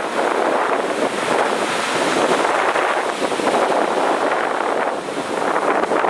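Heavy ocean surf on a beach: a continuous wash of breaking waves, swelling and easing slightly, with wind buffeting the microphone.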